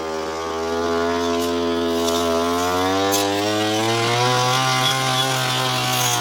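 Petrol brush cutter (strimmer) engine throttling up from a lower speed over the first second or so, then running at high speed, its pitch rising and dipping as it cuts through tall, thick grass.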